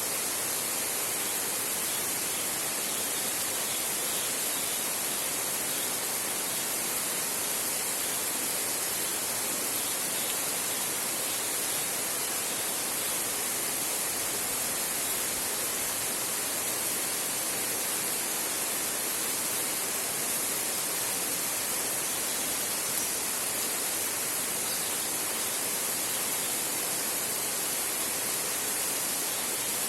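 Heavy rain falling steadily on a tin roof, an even hiss with no thunder.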